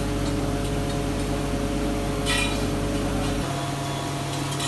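Workshop machinery running with a steady electric-motor hum, a short metallic clink about two seconds in, and the low part of the hum shifting about three and a half seconds in as one machine changes or stops.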